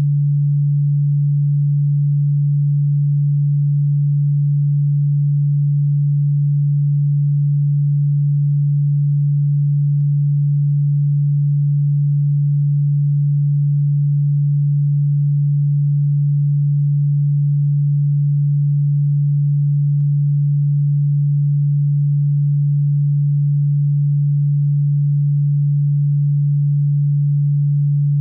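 A single steady, low-pitched electronic sine tone that never changes, played as a cockroach repellent sound. Though sold as ultrasonic, it is a low hum rather than anything above hearing.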